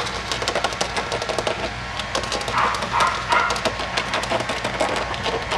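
Four-week-old Coton de Tulear puppies scuffling, with a run of small scratching and rustling clicks and a few brief, high puppy vocalisations about halfway through.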